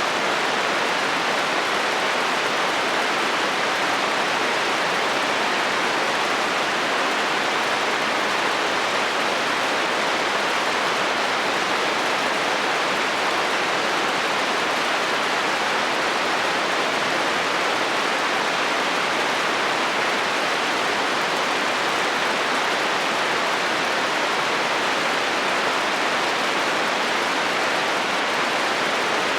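Heavy rain falling steadily on a metal roof, an even hiss of countless drops with no thunder.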